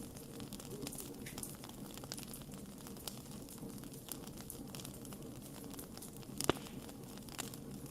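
Wood fire crackling, with irregular snaps and pops over a low steady rush. One louder pop comes about six and a half seconds in.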